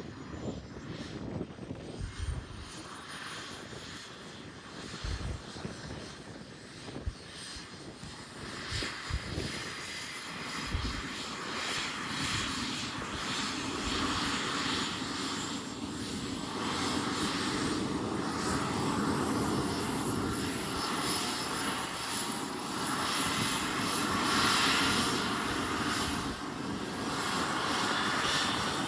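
Helicopter engine starting up: a high whine rises in pitch over the first several seconds while the engine noise grows steadily louder as it comes up to speed. A few brief low thumps sound in the first half.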